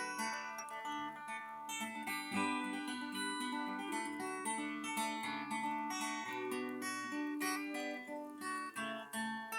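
Acoustic guitar playing chords without singing, the instrumental close of a folk-style song.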